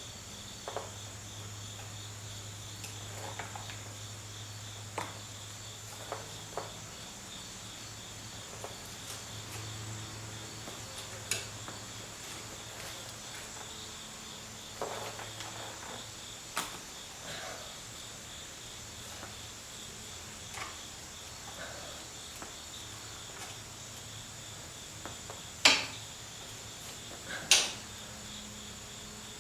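Scattered clicks and light knocks of hand tools on nuts and bolts, with two sharp, louder clinks near the end, over a steady high-pitched chirring and a low hum.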